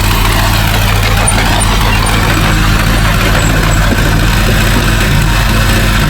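Heavy diesel engine of earthmoving equipment running steadily at an even speed, without revving up or down.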